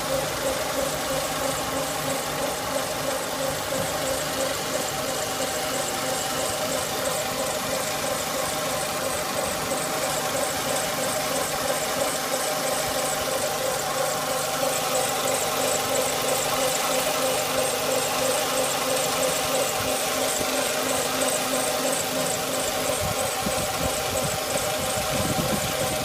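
A vehicle engine running steadily, with a steady high-pitched whine over it that pulses quickly and evenly. It is an unusual noise whose owner is unsure whether it is normal.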